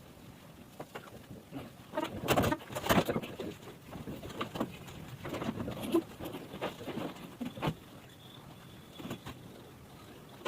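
Irregular knocks, taps and clatter of installation work, loudest in a quick cluster about two to three seconds in, then more scattered.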